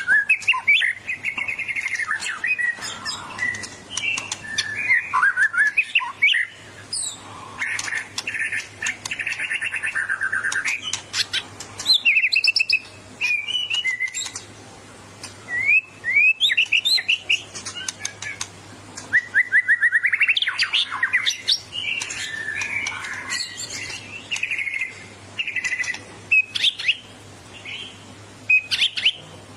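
White-rumped shama (murai batu) singing in bursts: a fast, varied song of whistles, rapid trills and sharp clicking notes. This is the aggressive song of a bird in fighting mood.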